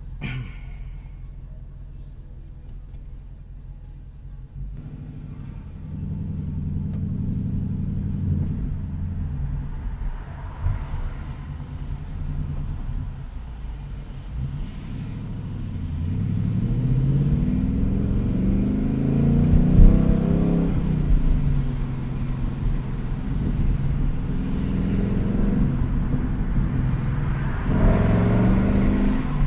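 2020 Ford Mustang Bullitt's 5.0-litre V8 running while driving. It is low and steady at first, grows louder a few seconds in, and revs rise about halfway through and again near the end as it accelerates.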